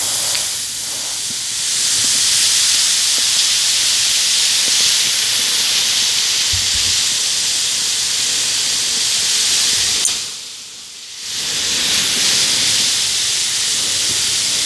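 Bath bomb fizzing hard in water: a steady, loud hiss of bubbles. It drops away briefly about ten seconds in.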